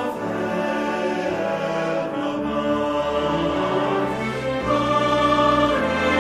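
Church choir singing a Christmas cantata with instrumental accompaniment, holding long sustained chords that change every second or so. It swells louder about three-quarters of the way through.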